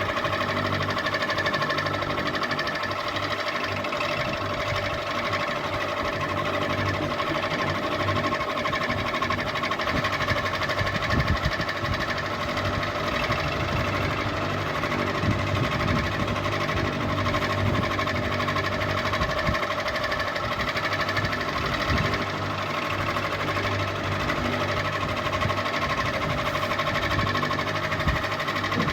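Electric ceiling fan running steadily: a constant motor hum with a light, uneven rattle underneath.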